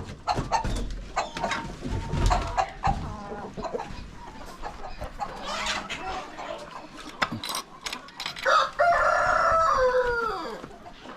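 Chickens clucking, with scattered light knocks, then a rooster crowing one long call about eight seconds in that falls in pitch at its end.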